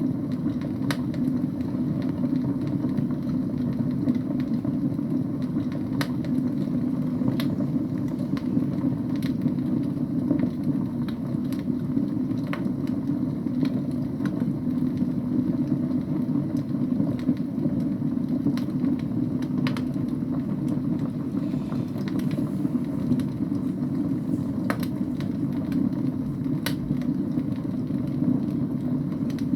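Wood fire burning in a fireplace: a steady low sound of the flames, with sharp crackles and pops from the burning logs scattered every second or few seconds.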